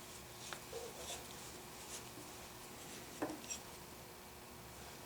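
A few faint, short clicks and light knocks from hardware being handled during a bracket install, over low room noise.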